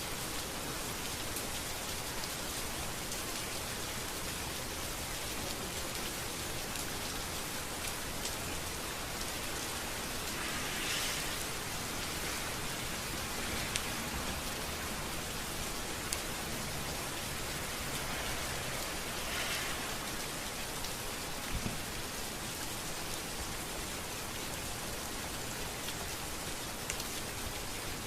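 Steady rain falling on a street, an even hiss with scattered drops ticking. The hiss swells briefly twice, about a third and two-thirds of the way through.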